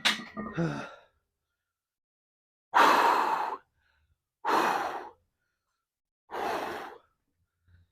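A man breathing hard after a heavy set of barbell squats: three long, heavy exhalations about a second and a half apart, each a little softer than the one before, as he catches his breath.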